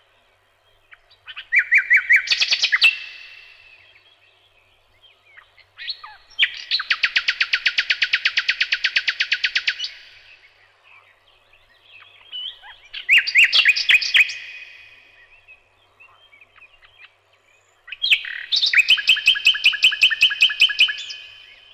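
A songbird singing in four separate phrases a few seconds apart, each a quick run of repeated high notes. The second phrase is a long, even trill lasting about three and a half seconds.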